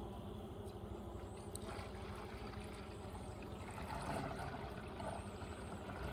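Steady buzzing of a honeybee colony in an open hive, with a brief rustle of handling about four seconds in.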